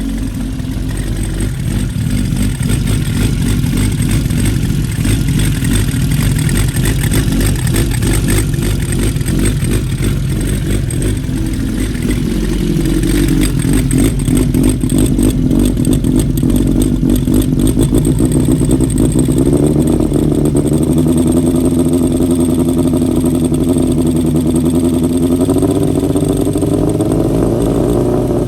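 Honda CBX550F inline-four, enlarged to 740cc, running through a one-off titanium exhaust. The revs rise about midway, then climb slowly and hold higher through the second half.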